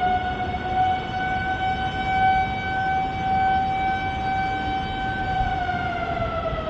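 A warning siren sounding one long, held wail over a steady background hiss. Its pitch drops away near the end.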